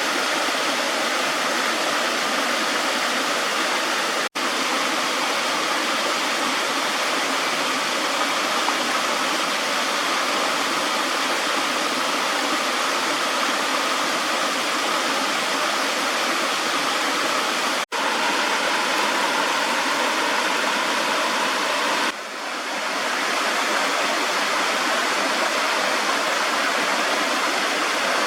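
Running water rushing steadily, like a fast stream or small waterfall. It breaks off for an instant twice, and dips briefly about 22 seconds in.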